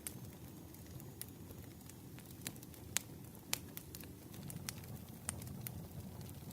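Campfire burning with a steady low rumble and scattered sharp crackles and pops from the wood, two of them louder about three and three and a half seconds in.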